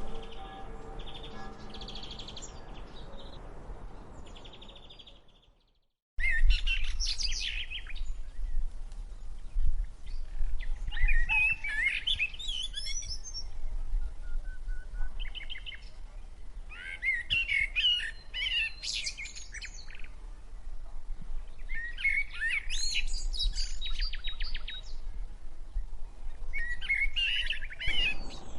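Music fading out over the first few seconds, then a bird singing short, varied high phrases, one about every four to five seconds, over a steady low rumble.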